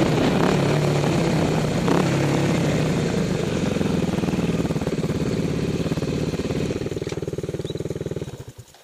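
Kawasaki dirt bike engine running on a trail ride, with wind rush on the microphone. About seven seconds in it drops to an idle with even firing pulses, then cuts off near the end.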